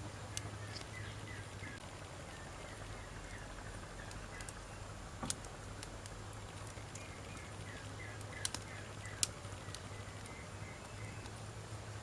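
Wood campfire burning with a low steady hiss and a few scattered sharp crackles and pops. A bird chirps in runs of quick short notes in the background.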